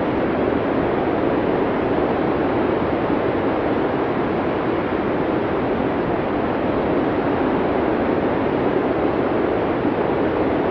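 Steady blizzard wind noise: an even, muffled rush with no distinct gusts or other events.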